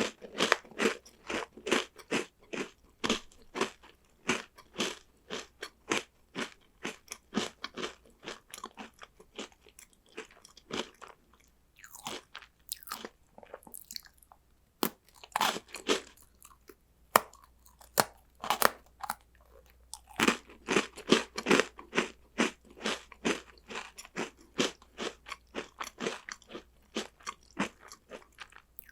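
Close-miked crunching and chewing of crunchy chocolate snacks: rapid crisp crunches several times a second, easing into a few scattered crunches in the middle before steady chewing resumes.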